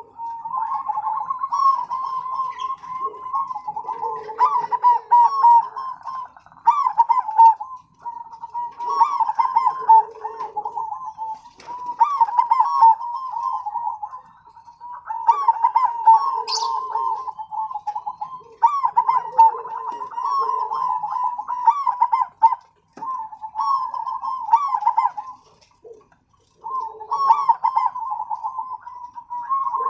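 Zebra doves cooing: repeated phrases of quick, rippling notes a few seconds long, broken by brief pauses.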